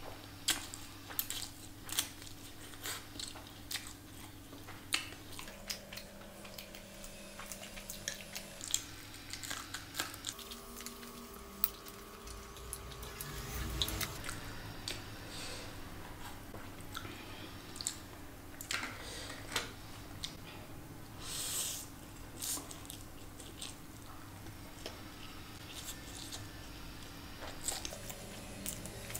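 Close-miked chewing of Maggi noodles, with many short wet mouth clicks and smacks. A low steady hum runs underneath.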